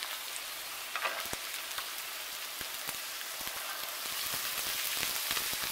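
Vegetables frying in hot oil in a wok: a steady sizzling hiss with scattered sharp crackles. The sizzle grows louder in the second half, as chopped capsicum and green peas are tipped into the pan.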